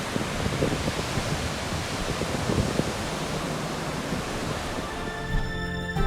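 Surf breaking on a beach, a steady rush of waves with wind buffeting the microphone. Music fades in near the end.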